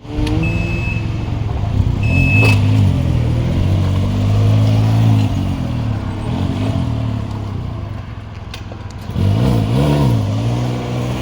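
Can-Am Ryker three-wheeler's engine running and revved several times, its pitch rising and falling, after a new starter solenoid has cured its no-crank fault.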